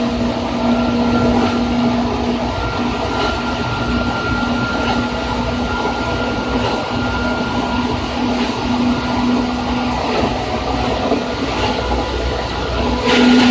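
Running sound aboard the train, heard inside motor car MoHa 2375 of set 2075F: a steady hum holding one pitch over a dense rumble of wheels on rail. Just before the end the noise suddenly gets louder and hissier.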